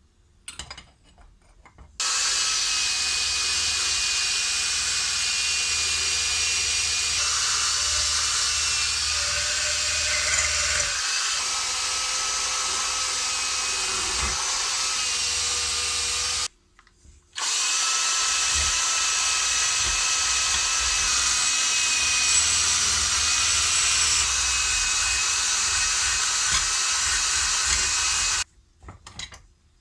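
A power tool running steadily with a constant whine, stopping suddenly about halfway through and starting again a second later, then cutting off near the end.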